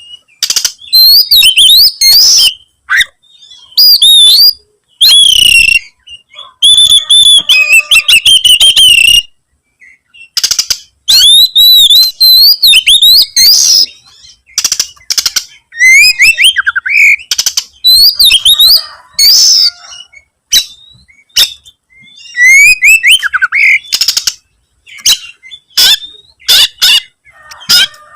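Oriental magpie-robin (kacer) in full song: loud bursts of fast, varied whistled phrases that glide up and down, broken by short pauses. Near the end comes a run of short, sharp notes.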